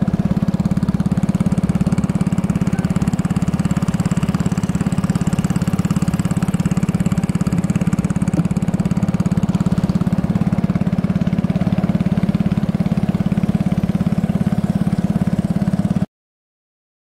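Small engine of a motorized canoe running steadily at a constant speed, with a fast, even pulse. It cuts off suddenly near the end.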